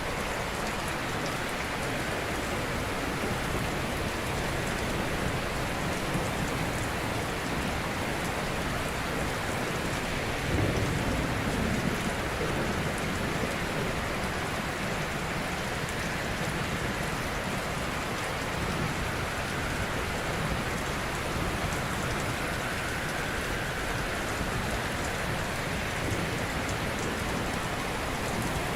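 Ocean surf: a steady wash of waves, with one wave breaking a little louder about ten seconds in.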